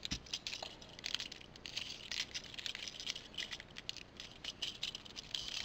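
Hard plastic parts of a Transformers train figure clicking and rattling as an arm is worked out into position. There is a continual patter of small, quick clicks.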